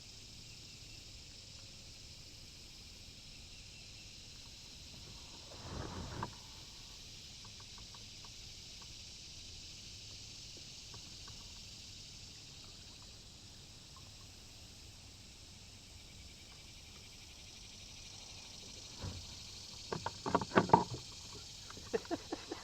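Kayak on the water: a brief splash or scrape about six seconds in, then a run of sharp knocks near the end, over a steady high hiss.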